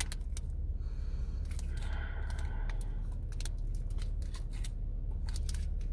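Chewing a caramel and nougat candy bar close to the microphone: a string of short, sharp mouth clicks over a low steady hum.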